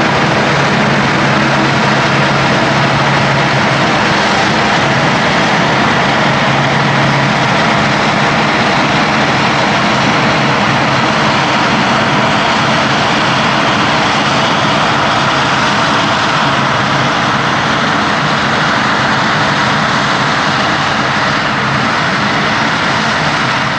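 Heavy diesel farm machinery working at maize silage harvest, running steadily and loudly. A low engine hum stands out at first and sinks into the general noise about seven seconds in.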